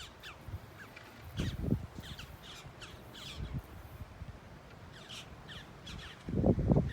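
A bird calling repeatedly in short, falling notes, over wind on the microphone. Near the end a strong gust hits the microphone with a loud low rumble.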